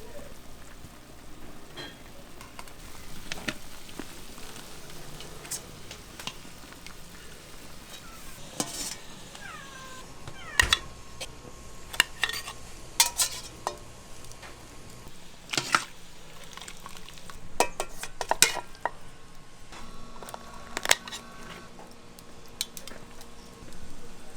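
Kitchen cooking sounds: metal utensils and pans clinking and scraping, with a scattering of sharp clanks from about ten seconds in, some ringing briefly, over a faint steady sizzle.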